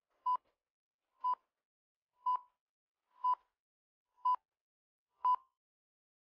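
Countdown timer sound effect: six short beeps, one each second, all at the same pitch.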